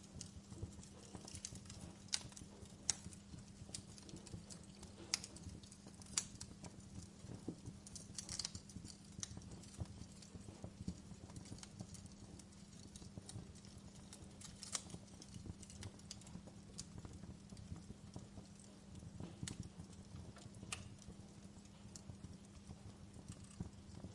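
Wood fire crackling in a fireplace: irregular sharp pops and snaps, a few louder than the rest, over a low steady hum.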